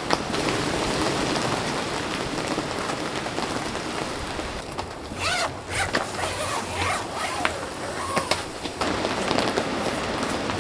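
Steady rain, and from about five to nine seconds in a zipper being pulled in several quick strokes.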